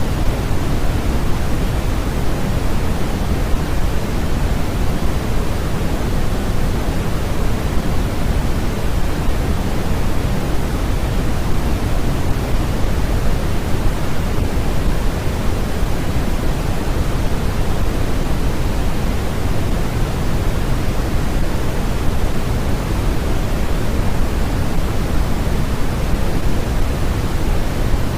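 A steady noise track of the kind sold as white noise: an even, unbroken hiss that is heavier in the low end than the high, closer to pink noise. It does not change at all.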